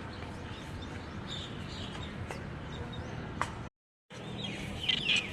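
Outdoor ambience with small birds chirping in short calls over a steady background hiss. The sound drops out completely for a moment just before the end, then a few louder chirps follow.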